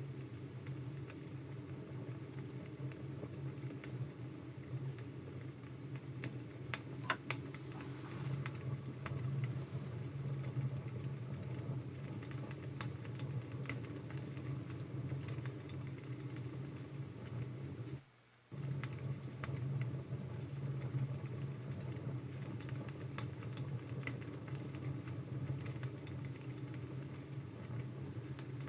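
Wood fire crackling: a steady low rush with irregular sharp pops and snaps. The sound drops out briefly about two-thirds of the way through, then resumes.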